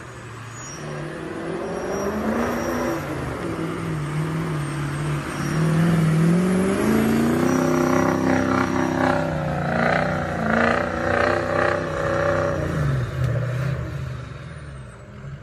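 Truck engine running and revving. Its pitch rises and falls several times, it is loudest in the middle, and it drops in pitch and fades away near the end.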